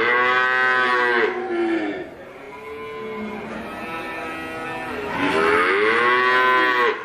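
A cow mooing: two long moos, the first ending about two seconds in and the second starting about five seconds in.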